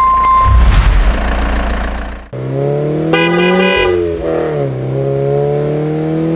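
Vehicle engine sound: a low rumble for the first two seconds, with a short beep at the very start. Then comes a pitched engine drone that rises and falls slowly in pitch for several seconds.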